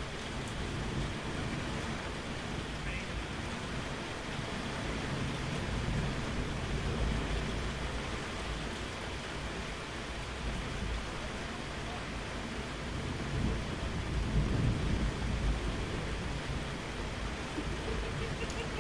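Steady rain falling, with low rolling thunder underneath that swells louder about two-thirds of the way through.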